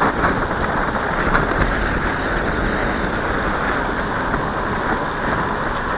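Steady rushing wind noise on the microphone of a moving bicycle, with tyre and road rumble.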